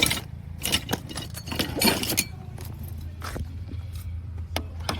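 Metal hand tools clinking and clicking against car battery terminal hardware: scattered sharp clicks with a short rattling cluster about two seconds in, over a steady low hum.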